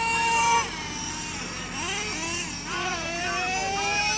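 Several electric R/C cars racing, their motors whining in overlapping tones that rise as they accelerate and swoop up and down as the cars pass. One whine climbs near the start and another climbs again about three seconds in.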